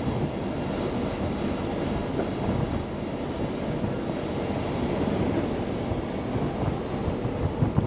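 Steady low rumble of a heavy diesel truck engine running, with no distinct knocks or changes.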